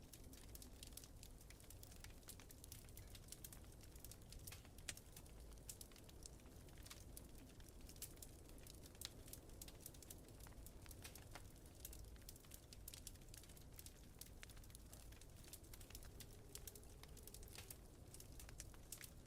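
Wood fire crackling faintly in a fireplace: many quick, irregular pops and snaps over a low, steady rumble of wind.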